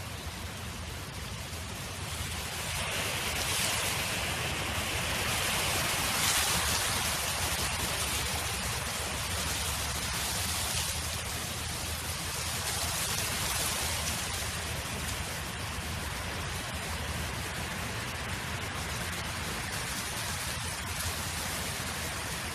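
Wind blowing across an open field as a steady rushing noise. It swells in a gust from about two seconds in, is strongest around six seconds, and eases back after about fourteen seconds.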